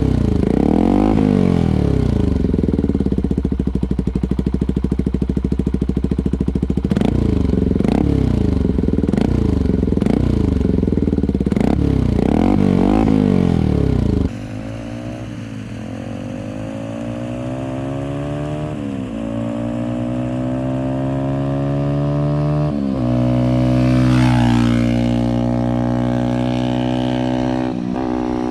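Benelli TNT 125's single-cylinder four-stroke engine through a decat down-pipe exhaust, revved again and again in sharp blips that rise and fall in pitch. About halfway through the sound cuts to the bike pulling away under power, its note climbing slowly, with a couple of brief drops in pitch near the end.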